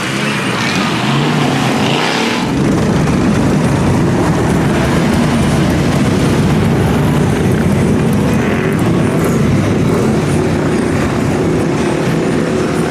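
Mud truck's engine running loud, swelling louder about two seconds in and then holding a steady drone.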